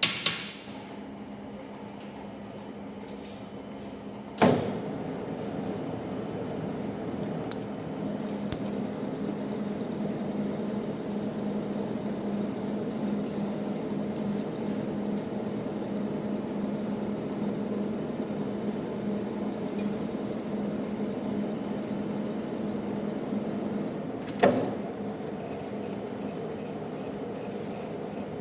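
Manual metal lathe running steadily with a gear hum while threading a 100 mm bolt. A sharp knock about four seconds in is followed by louder running with a high hiss, which lasts until another knock about twenty seconds later, when the sound drops back.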